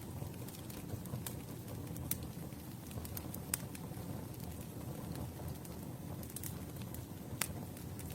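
Campfire burning with a steady low rumble and a few sharp, irregular crackles and pops from the wood.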